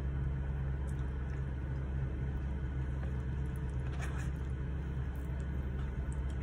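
Steady low hum of a car idling, heard inside the cabin, with faint eating sounds: chewing and a plastic fork scraping the paper tray, most noticeably about four seconds in.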